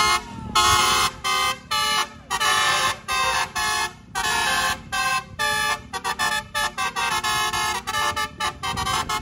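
Bus basuri telolet horn playing a tune, a run of loud pitched horn notes that start and stop sharply, longer at first and then quick short blasts from about six seconds in.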